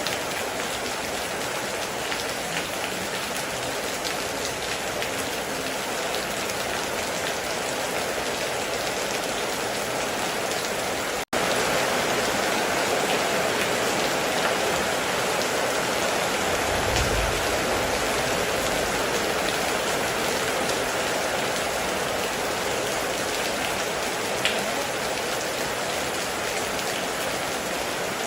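Heavy rain falling steadily, with a few single drops standing out. Just past a third of the way in, the sound cuts out for an instant and comes back slightly louder. Past the middle there is a short, low rumble of distant thunder.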